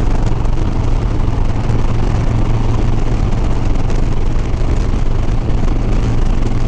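Harley-Davidson Sport Glide's V-twin engine running at a steady cruising speed, a constant low hum under the rush of wind and road noise on the rider's microphone.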